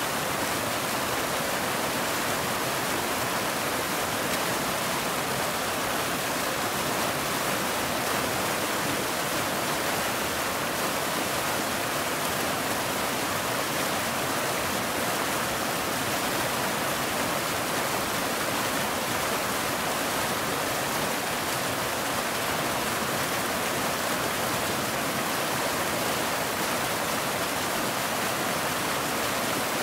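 Waterfall: a steady, even rush of falling water with no lulls or changes.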